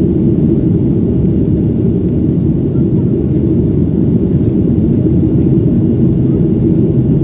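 Cabin noise of a Boeing 737-900ER airliner in flight: a steady, loud, low rumble from its engines and airflow.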